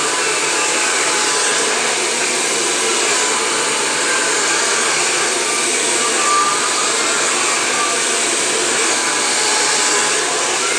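Hair dryer running steadily: a continuous, even rush of blown air.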